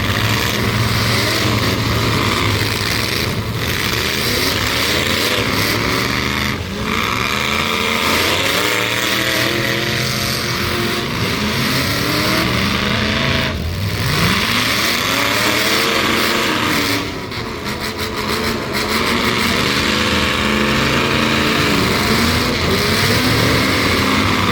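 Several demolition-derby trucks' engines revving hard together, their pitches rising and falling over and over as they run in the arena.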